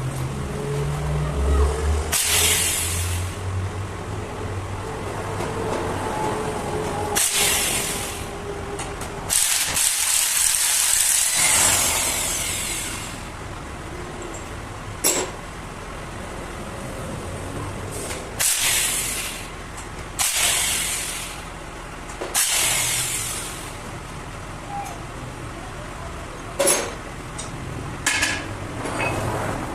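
Short bursts of hissing compressed air, about eight of them, each about a second long, with one longer blast near the middle.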